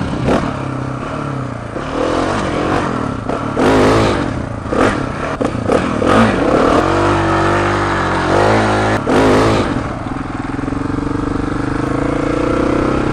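Motorcycle engine rising and falling in pitch as the rider slows and speeds up, settling to a steady pitch in the last few seconds, with short gusts of wind noise on the microphone.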